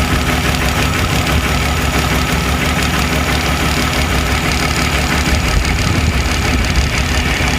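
Tractor engine running steadily under a constant load, a low, even drone with no change in speed.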